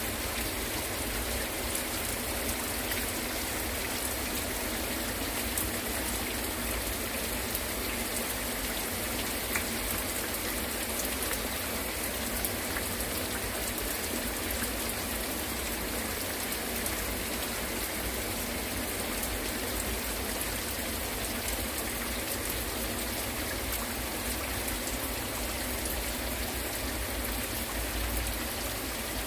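Heavy rain falling steadily, with scattered drops ticking on nearby surfaces.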